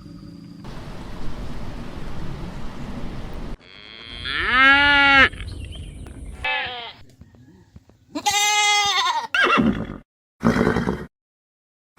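A rumbling noise for about three and a half seconds, then a run of about five livestock bleats cut together from separate recordings. Each is a pitched call that rises and falls, two of them long and loud, with short stretches of dead silence between the last clips.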